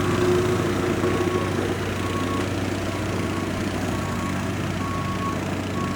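Heavy construction vehicle engine running steadily, with its reversing alarm beeping about once a second.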